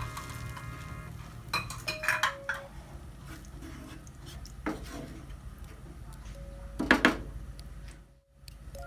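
Pots, dishes and cutlery being handled: scattered clinks and knocks, the loudest cluster about seven seconds in, with quiet background music at the start and near the end.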